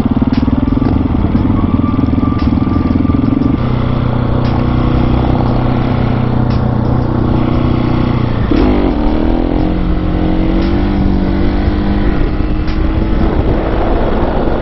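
Husqvarna 701 Supermoto's single-cylinder engine running under way. Its note holds steady, steps down about four seconds in, swoops sharply near nine seconds as it changes gear, then climbs slowly as the bike pulls.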